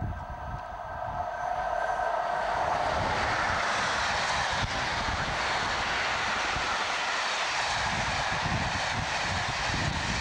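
An AC electric locomotive hauling an express of passenger coaches past at speed. For the first couple of seconds its whine is heard, several pitched tones as it comes up. It then gives way to a steady loud rush of wheels on rail as the coaches go by.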